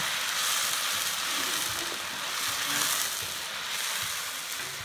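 Locusts frying in oil in a wok: a steady sizzling hiss.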